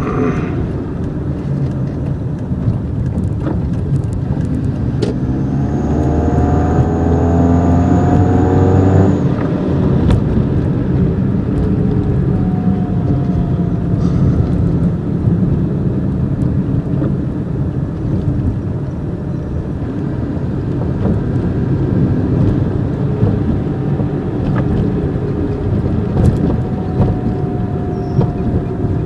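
Toyota Corolla engine running steadily. About six seconds in it pulls harder for roughly three seconds while an exhaust-tip turbo whistler gives a thin, high, steady whistle that stops when the engine eases off.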